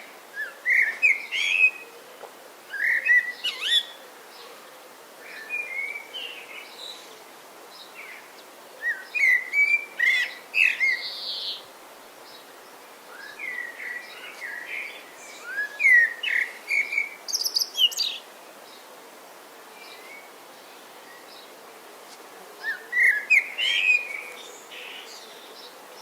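Songbirds singing: short phrases of quick chirps and whistled notes every few seconds, with a longer pause before a last phrase near the end.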